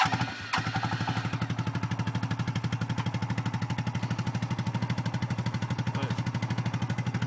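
1992 Suzuki QuadRunner 300 ATV's single-cylinder four-stroke engine catching on a cold start, a few ragged firings then settling about half a second in into a steady, rapid idle.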